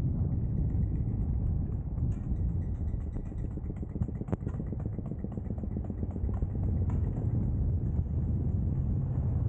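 Steady low rumble of a vehicle driving along a road, engine and tyre noise, with a few brief ticks or knocks.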